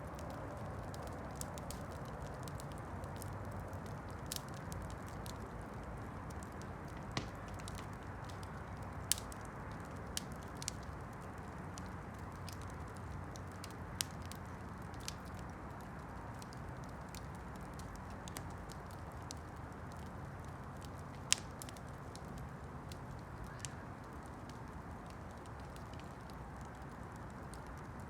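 Campfire burning with a steady low rush and scattered sharp pops and crackles, one louder pop about three quarters of the way through.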